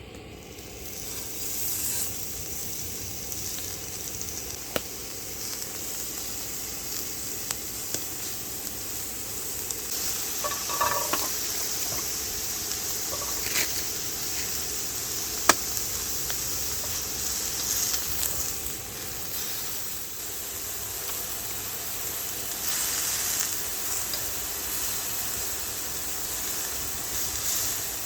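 Food sizzling in a hot pan, a steady frying hiss that builds over the first couple of seconds, with scattered light clicks of a utensil against the pan.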